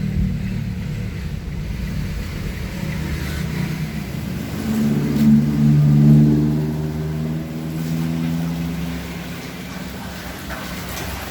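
Motor vehicle engine running steadily, with a louder engine passing that swells and fades about halfway through.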